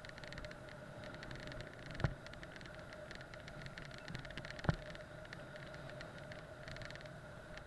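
Steady road noise from a moving bike, with a faint steady whine and two sharp knocks, about two and about four and a half seconds in.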